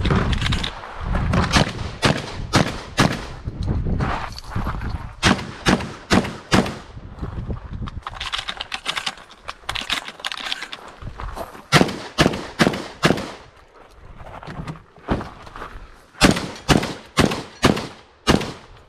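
12-gauge semi-automatic shotgun, a Beretta 1301, firing in fast strings of shots with short pauses between the strings.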